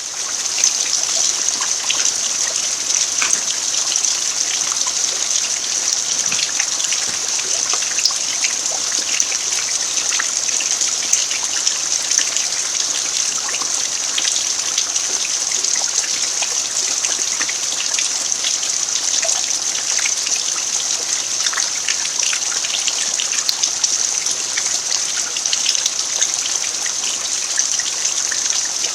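Steady rain falling on an earthen yard: an even hiss scattered with many small drop ticks.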